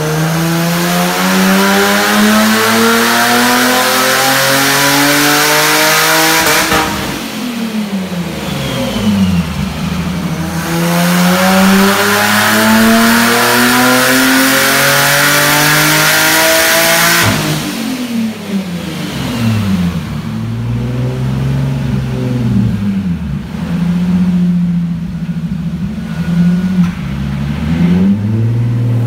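Turbocharged Nissan 350Z's 3.5-litre V6, a freshly swapped stock-block engine running on low boost, making two full-throttle pulls on a chassis dyno: each time the revs climb steadily for about six seconds, then the throttle is lifted and the revs fall away. After the second pull it settles to a low idle with a few small blips near the end.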